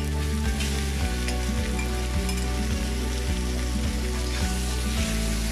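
Chicken pieces sizzling as they fry in a little oil in a wok, with a spatula coming in to stir them. Background music with a steady beat plays over it.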